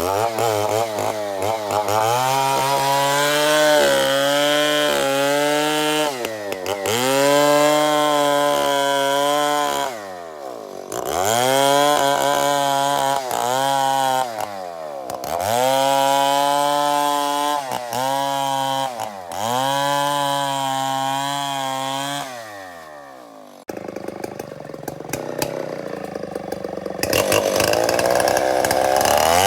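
STIHL 070 two-stroke chainsaw cutting wood under load, its engine pitch dropping and climbing back again and again as the chain bites and frees. A little past three-quarters of the way through, the sound changes abruptly to a rougher, noisier saw sound.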